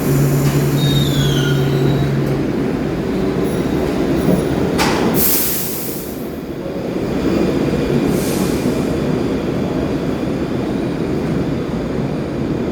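New York City subway 1 train running with a steady rumble. There is a brief falling wheel squeal about a second in and two short bursts of hiss about five and eight seconds in.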